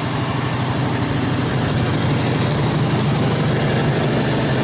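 1986 Chevy K-10 pickup's carbureted engine idling steadily, with an idle the owner is having trouble with.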